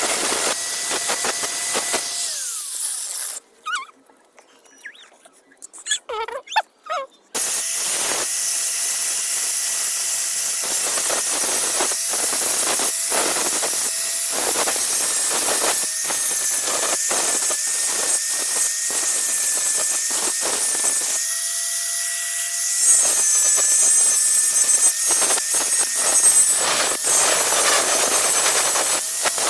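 Angle grinder running with a steady whine, its disc grinding the steel of a rusty knife blade with a harsh hiss. About three seconds in, the sound cuts off abruptly for about four seconds, leaving only a few faint squeaks, then starts again.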